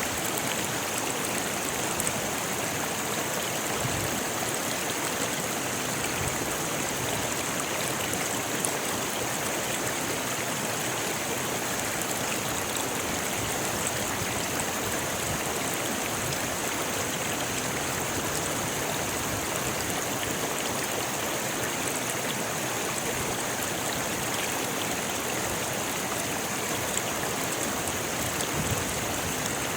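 Rocky river flowing over stones: a steady, unbroken rush of water with a bright hiss on top.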